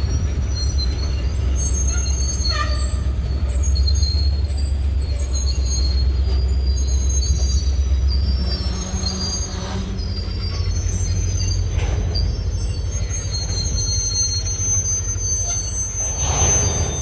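Freight train rolling past, its steel wheels squealing against the rails in several thin, high tones that come and go over a low rumble, with a few sharp knocks. The low rumble eases off about halfway through.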